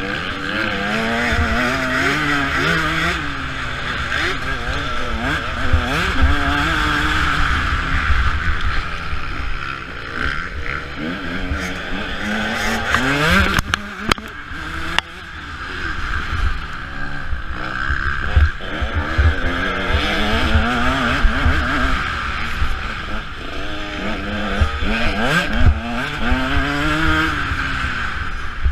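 Motocross dirt bike engine revving up and down as the rider works the throttle, the pitch climbing and falling repeatedly. One long climb is cut off sharply about halfway through. Steady wind rush and low thumping run underneath.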